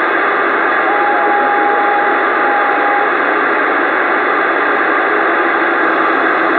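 CB radio receiver giving a loud, steady static hiss on an open channel with no voice on it. A faint steady whistle rides on the hiss from about a second in for about two seconds.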